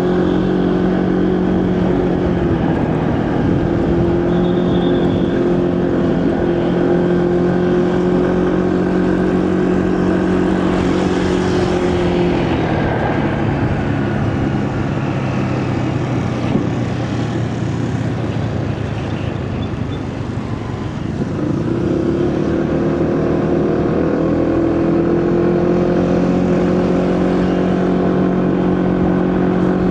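A motorcycle engine running at a steady cruise, with wind and road noise. About twelve seconds in, the engine's steady note falls away as the bike slows. From about 21 seconds it comes back with a rising pitch as it picks up speed again.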